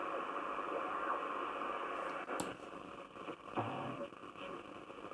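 Shortwave static and hiss from a Grundig Satellit 3400 world receiver's speaker, tuned between stations, with one sharp click about two and a half seconds in, after which the hiss drops lower.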